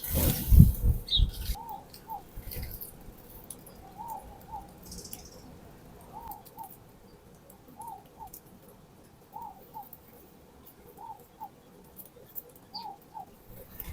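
A bird repeating a short two-note call about every second and a half, seven times over. A loud rustling thump comes first.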